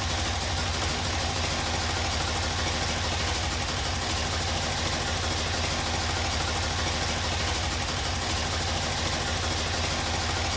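Motorcycle engine idling steadily, with an even low pulse.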